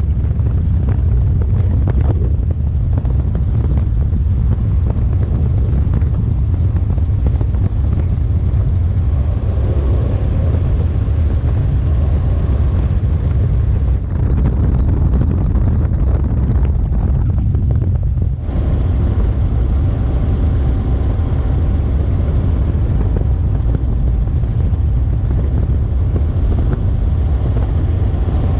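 Robinson R44 helicopter heard from inside the cabin with the doors off: a loud, steady drone of rotor and engine, with wind buffeting the microphone.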